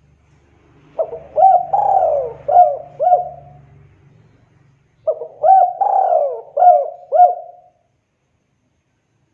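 Spotted dove cooing: two song phrases of several rising and falling coos each, the second starting about four seconds after the first.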